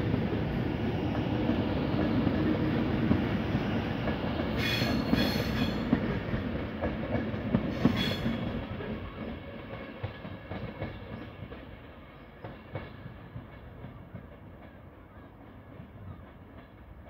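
Avanti West Coast Class 390 Pendolino electric train running past along the platform, its wheels clattering over the rails, with a couple of brief high squeals about five and eight seconds in. The rumble fades steadily as the train pulls away.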